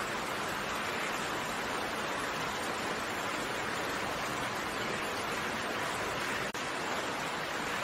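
Steady rain falling, an even hiss of many drops with no single drop standing out, with a momentary dip in level about six and a half seconds in.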